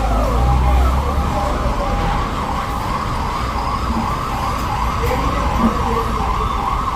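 Vehicle siren, starting with a few slower falling sweeps and then switching to a fast warble of about three cycles a second, over a low engine rumble; it cuts off suddenly at the very end.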